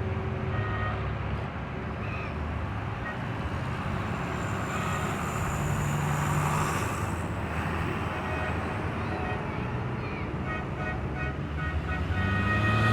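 Tractor engines running as tractors drive slowly past, a steady low hum that shifts in pitch and grows louder near the end.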